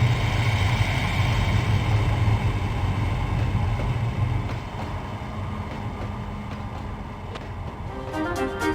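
Train moving along the rails, a steady low rumble that fades away about halfway through. Piano music comes in near the end.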